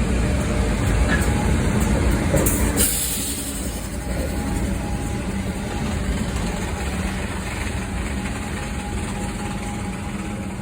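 Goods train running by with a steady low rumble, loudest in the first three seconds and then slowly growing quieter. There is a brief hiss about three seconds in.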